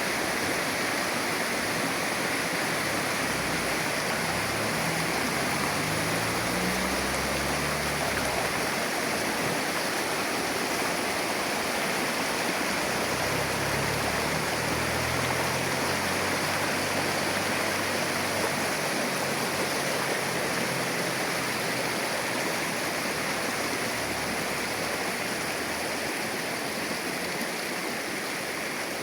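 Shallow river water flowing steadily, an even, unbroken rush of water noise.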